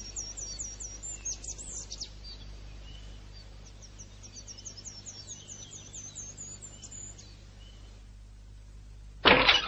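Birds chirping in quick runs of short, high repeated notes, twice, over a low steady hum. A sudden loud sound comes in just before the end.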